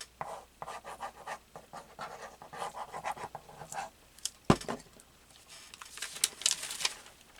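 Paper being handled and rubbed on a table while glue is spread on a cutout: a run of short scratchy rubbing strokes, one sharp knock about four and a half seconds in, then a brighter rustle of paper near the end.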